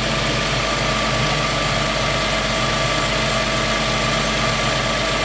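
Infiniti G35's 3.5-litre VQ35DE V6 idling steadily with the radiator cap off, run to work air bubbles out of the freshly refilled cooling system after a thermostat replacement.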